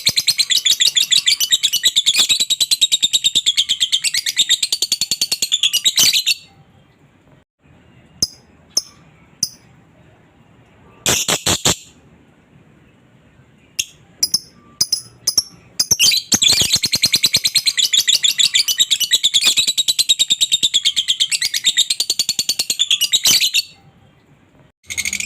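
Lovebird singing in long runs of rapid, high chattering (the 'ngekek' trill of a bird in full song): one run ends about six seconds in, another runs from about sixteen to twenty-three seconds, with a few short chirps between.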